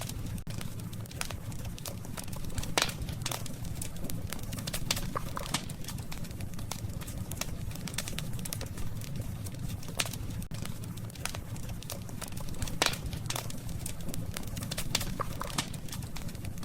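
Wood campfire burning, with irregular sharp crackles and pops over a steady low rumble. The loudest pops come about three seconds in and again near thirteen seconds.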